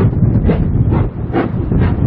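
Steam locomotive working, its exhaust chuffing about twice a second and slightly quickening over a heavy low rumble.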